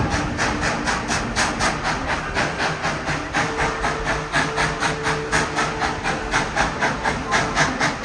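Tweetsie Railroad's narrow-gauge steam locomotive running at a steady pace, its exhaust chuffing about four beats a second.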